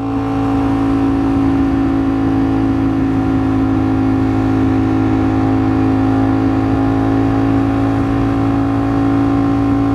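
Ducati Streetfighter V4 S's V4 engine running at a steady cruising speed, heard on the rider's own microphone over steady wind and road noise.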